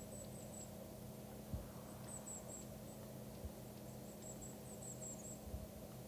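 Three short runs of very high, thin bird notes from a small songbird, with a couple of soft knocks about one and a half and three and a half seconds in, over a steady low hum.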